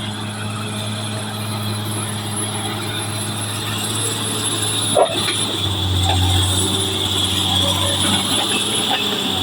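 Caterpillar D6R XL bulldozer's diesel engine running steadily, its note dropping a little and growing louder about halfway through, with a single sharp knock about five seconds in.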